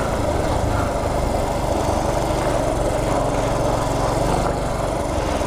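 Small single-cylinder four-stroke engine of a 1983 Honda C70 Passport step-through running steadily, with even, rapid low-pitched pulsing.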